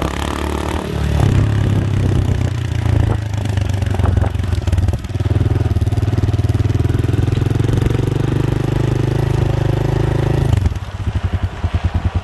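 Motorcycle engine running through an Akrapovic aftermarket exhaust with the dB killer fitted, ridden under way with the engine note changing pitch a couple of times. Near the end it drops to a slow, even putter of separate exhaust pulses as it comes off the throttle.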